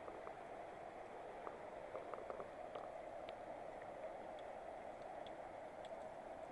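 Steady rush of a mountain river tumbling over small cascades, with faint scattered splashes and drips.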